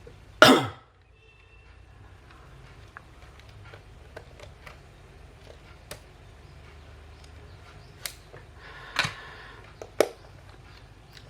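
A short loud burst about half a second in, then scattered light clicks and taps over faint room noise.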